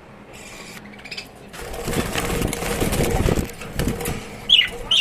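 Caged birds making a rattling, scuffling noise for about two seconds, then two short, sharp bird calls that slide downward in pitch near the end.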